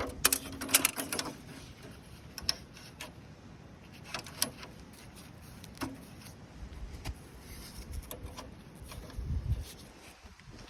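Stainless steel parts of a box-type fire pit clinking and rattling as its mesh grate is fitted in: a quick clatter of metal clicks at the start, then scattered single clicks.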